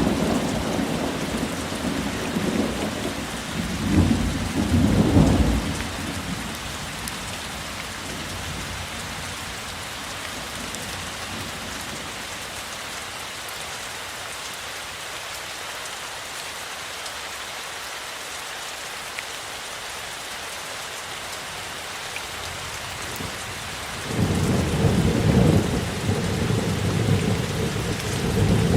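Steady heavy rain hissing, with thunder rumbling. The thunder rolls twice in the first few seconds and dies away by about six seconds in. About 24 seconds in it rumbles again, starting suddenly, and carries on under the rain.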